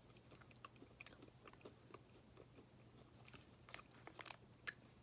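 Faint close-up chewing of a chewy peanut butter and chocolate-chip granola bar: scattered soft wet mouth clicks, with a few sharper clicks in the second half, over a steady low hum.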